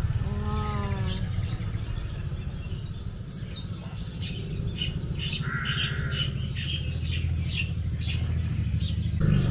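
Caged birds calling: a squawk about half a second in, then quick, high, falling chirps and scattered short calls, over a steady low hum.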